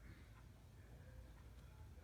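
Near silence: room tone with a low hum.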